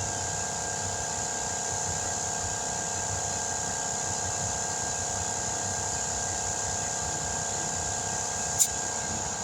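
A steady mechanical drone with several fixed tones, running evenly throughout, and one short sharp click near the end.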